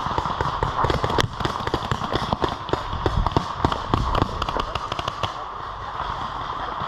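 Running footsteps with gear rattling: a quick, uneven run of thumps and clicks that eases off about five seconds in.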